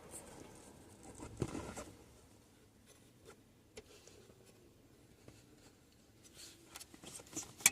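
Faint scattered clicks and rustling of small handling sounds, with a soft rustle about a second and a half in and a few sharper clicks near the end.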